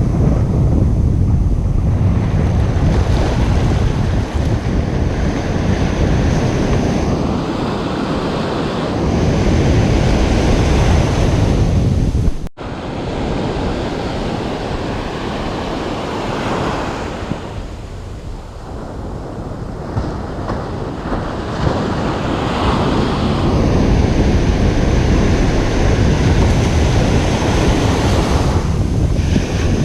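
Ocean surf breaking and washing up a beach in slow swells, with wind rumbling on the microphone. The sound cuts out for an instant about twelve seconds in.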